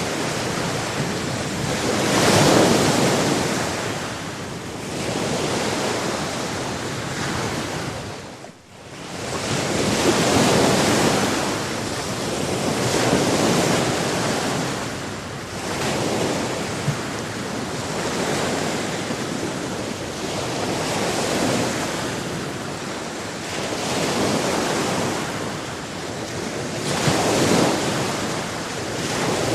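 Sea waves washing onto a shore in slow, uneven swells, each surge rising and falling over a few seconds. The sound dips sharply almost to quiet for a moment about eight seconds in, then swells back.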